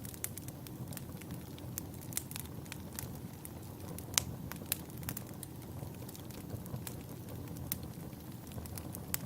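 Wood fire burning in a fireplace: a steady low rumble of flames with frequent irregular crackles and pops, a couple of sharper pops about four and a half seconds in.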